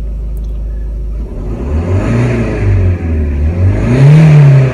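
Turbocharged car engine, heard from inside the cabin, running steadily and then accelerating: its note rises, dips about halfway, then climbs again to its loudest near the end before falling. The engine is being pushed up to its boost limit, where the vacuum to the turbo actuator is cut back.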